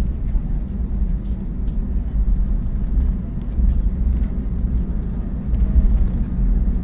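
Steady low rumble inside the cabin of an Airbus A321neo taxiing on the ground: engine noise and the rumble of the wheels, with a few faint knocks.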